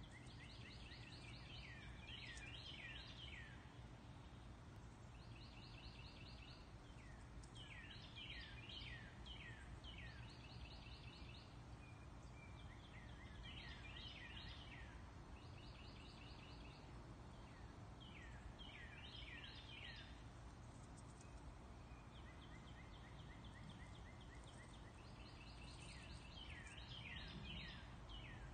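A bird singing, repeating its phrase every few seconds: a quick run of even notes, often followed by several falling notes, over a faint low steady rumble.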